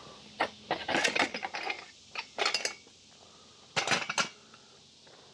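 Metal clinking and clattering in several short bursts, the loudest about a second in and about four seconds in.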